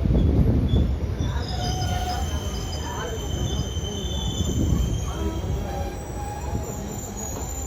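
Indian Railways ICF coaches rumbling along the track, with thin high-pitched wheel squeal setting in about a second and a half in. The rumble gradually eases.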